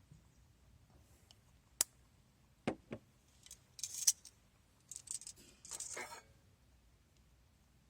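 Camp gear being handled by hand: a sharp click, two quick knocks, then bursts of light metallic rattling and rustling.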